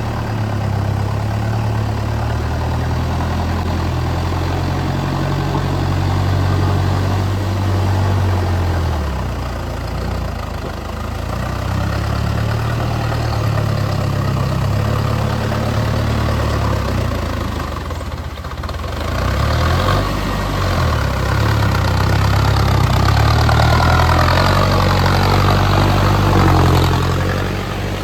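Mahindra Arjun Novo tractor's diesel engine running, its low drone shifting in pitch a few times. A whine sweeps up and down over it in the last few seconds.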